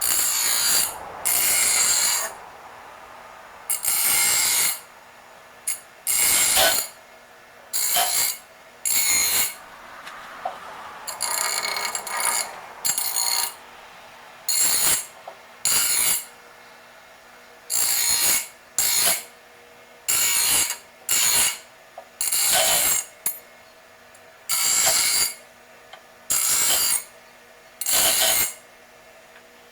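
Grinder deburring the sharp edges of metal kayak seat-mount brackets in short, repeated passes. Each pass is a loud, hissy grinding burst of half a second to a second, with the tool running more quietly in the gaps.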